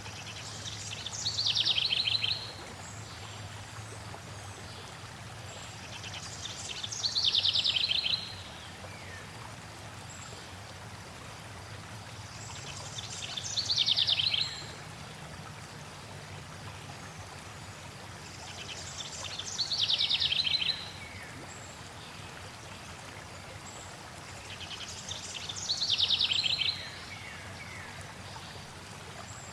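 A songbird singing the same short trilled phrase five times, about every six seconds, each trill sliding down in pitch and lasting about a second and a half, over the steady rush of flowing water.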